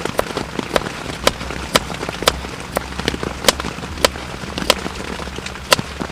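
A knife chopping food, sharp separate chops roughly two a second, over a steady background hiss.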